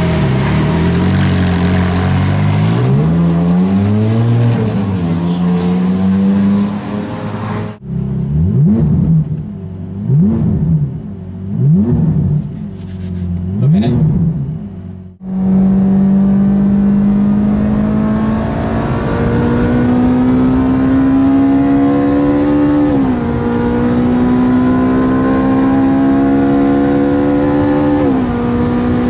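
Ferrari F430's V8 engine through a Capristo exhaust, pitch rising and falling, then four quick sharp revs. After that it pulls in a long steady climb in revs, with two sudden drops in pitch at the gear changes about two-thirds of the way in and near the end.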